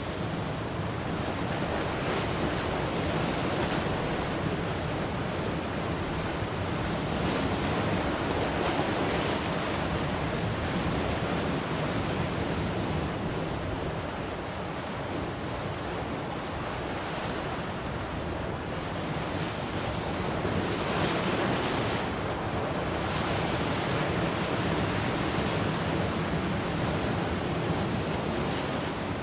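Ocean surf, a steady rush of breaking and washing waves that swells a little louder twice and eases back.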